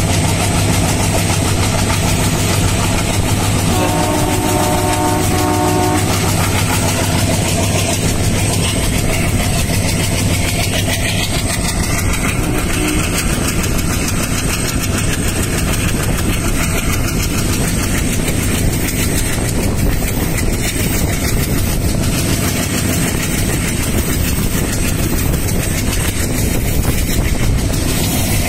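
Passenger train running along the track: a steady loud rumble and clatter of wheels on rails over a low hum. The train's horn sounds about four seconds in, for roughly two seconds.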